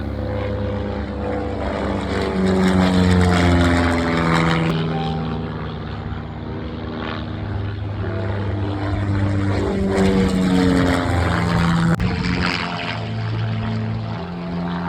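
Propeller aircraft flying low past, the engine and propeller sound swelling and easing off twice.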